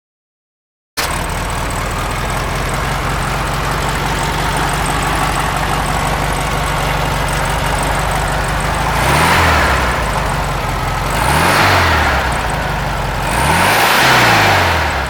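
1968 Volkswagen Beetle's 1500cc air-cooled flat-four engine idling steadily, cutting in about a second in, then revved three times near the end, each rev rising and dropping back to idle.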